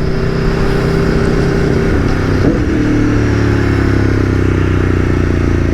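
Aprilia Tuono V4 1100 Factory's V4 engine running as the motorcycle rides along, with wind noise over it. There is a brief break in the engine note about two and a half seconds in, after which the pitch slowly falls.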